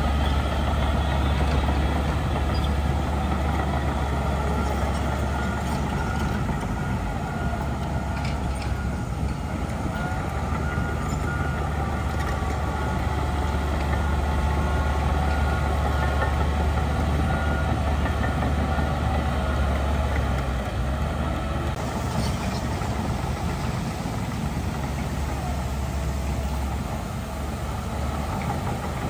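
Heavy diesel earthmoving machinery running steadily, a continuous deep engine rumble.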